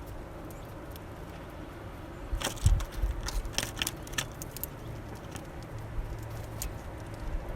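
Small birds at a seed feeder, pecking and cracking seeds with scattered sharp clicks and taps, and a low thump about two and a half seconds in.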